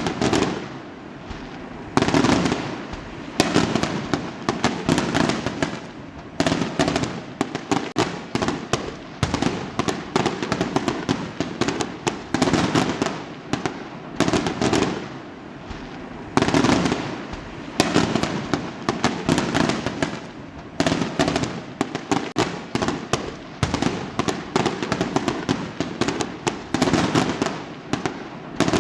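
Fireworks going off in quick succession: loud bangs every second or two, each followed by dense crackling.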